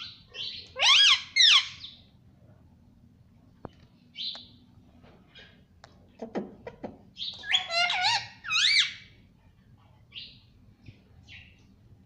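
Pet ringneck parrot calling: two loud, shrill, arching calls about a second in, softer short chirps scattered between, and a run of several loud calls around eight seconds in.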